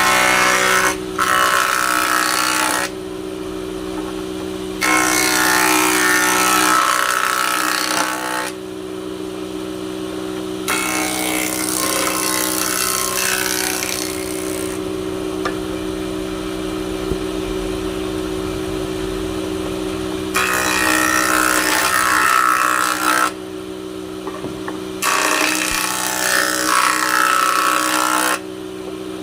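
Electric woodworking power tool running steadily, its motor humming, with about six louder stretches of a few seconds each as it cuts into wood.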